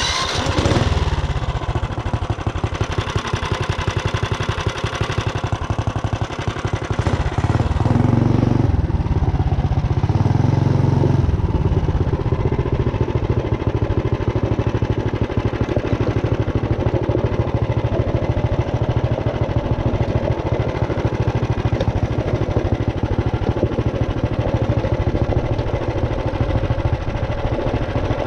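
A Tillotson 212 single-cylinder four-stroke minibike engine, just started, running with a rapid, even firing beat. It gets louder for a few seconds about eight seconds in, then runs steadily.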